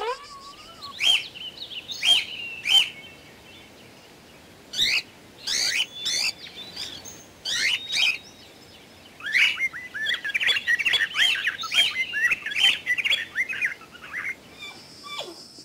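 Cockatiel calling: short whistled chirps with rising and falling hooks, a few at first, then a fast chattering run in the second half.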